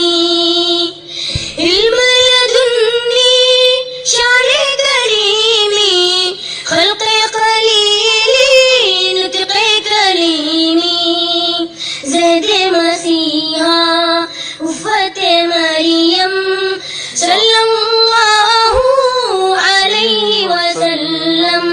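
A child singing a naat, an Urdu devotional hymn in praise of the Prophet, as a solo voice. The lines are long, held and ornamented, with short breaks for breath between phrases.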